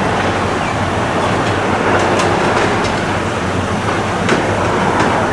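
Boeing 737-800 jet engines, CFM56-7B turbofans, making a loud, steady noise as the airliner moves on or near the runway.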